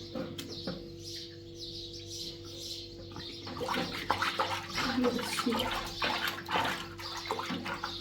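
Water splashing and pouring in irregular bursts, starting about a third of the way in, over a steady low hum.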